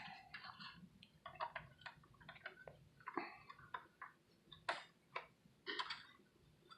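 Faint, irregular plastic clicks and taps of a short RJ45 cable plug being handled and pushed at the socket of a split keyboard half.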